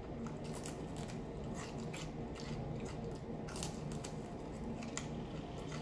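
Close-miked chewing of crispy fried black bass: a run of irregular crisp crunches, roughly two a second, as the fried coating breaks between the teeth.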